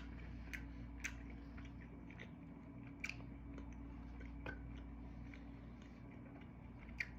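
A person chewing crunchy thin-crust pizza close to the microphone, with irregular crunching clicks. A steady low hum runs underneath.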